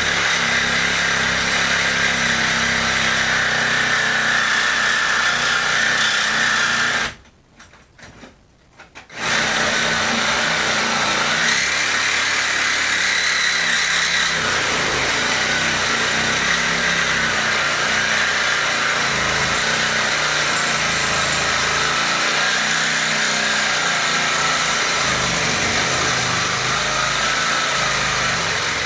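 Reciprocating saw with a metal-cutting blade running under load, cutting into a refrigerator's cabinet wall and its fiberglass insulation. It runs for about seven seconds, stops for about two, then starts again and runs steadily until near the end.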